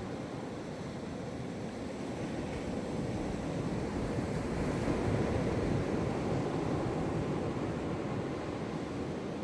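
Gentle Atlantic Ocean surf rolling onto the beach, a steady wash of breaking waves that swells to a peak about halfway through and eases off again.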